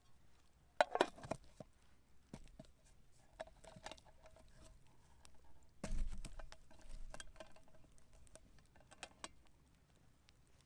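Light clicks and knocks of a pot and utensils as soup ingredients go into a pot over a campfire. There are louder clattering knocks about a second in and again around six seconds in.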